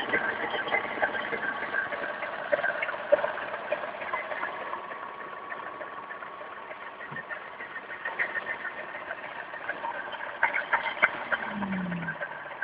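ME0909 12-volt electric motor driving a Voskhod 3M motorcycle gearbox: a rattling mechanical clatter of many small clicks, with a steady whine that fades away past the middle. Near the end a short low tone drops in pitch.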